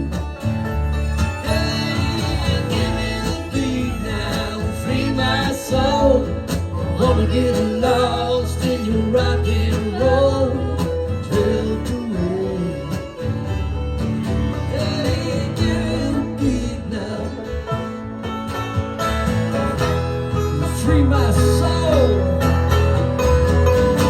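Live country band playing an instrumental break, with guitar to the fore.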